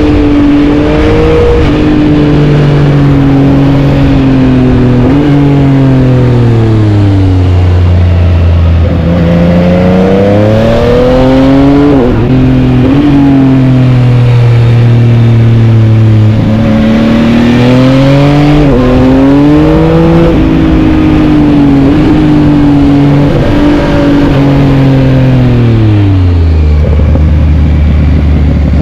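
Yamaha MT-09's inline three-cylinder engine under way, its pitch climbing and falling again and again as the bike accelerates and slows, with several long falls down to a low rumble.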